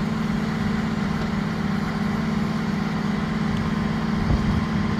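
A heavy vehicle's engine idling, a steady low hum that does not change.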